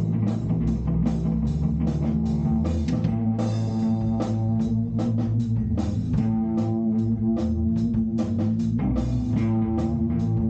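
Rock band playing an instrumental passage: guitar, bass guitar and drum kit with a steady beat.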